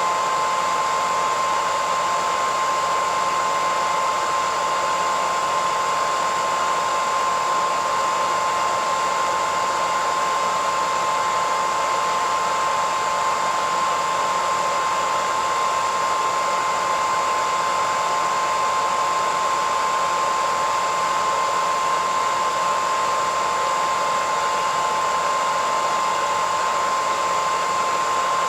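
Hair dryer running steadily: an even rushing of air with a constant whine near 1 kHz.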